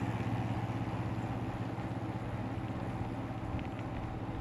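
E-bike riding noise: a steady low hum with a fast, even flutter, plus some tyre and wind noise, while the bike is under way.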